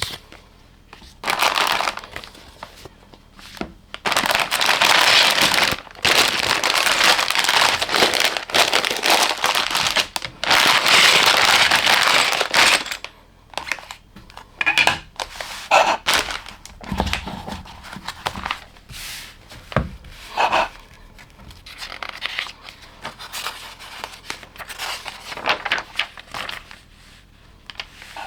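Plastic parts bags crinkling and rustling in long stretches, with tearing, then a string of short clicks and brief rustles from handling small plastic LEGO pieces.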